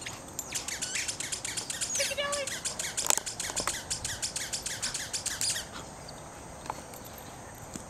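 Small birds chirping and twittering in a dense run of quick high chirps that stops suddenly a little over five seconds in.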